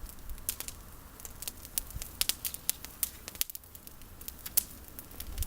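Campfire of pruned olive branches crackling, with frequent irregular sharp pops.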